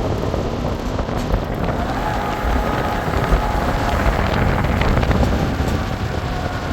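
Strong wind buffeting the microphone: a loud, steady rumble with crackling, typical of blizzard gusts.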